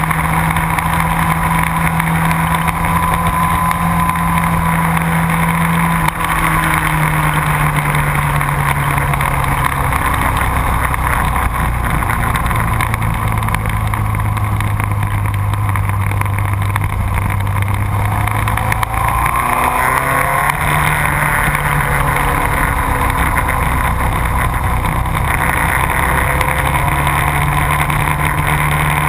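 Motorcycle engine at speed on a race track, running at high revs. The revs step down twice in the first ten seconds and stay low through the middle, then climb again with rising sweeps from about twenty seconds in as the bike accelerates. A steady rush of noise runs beneath it all.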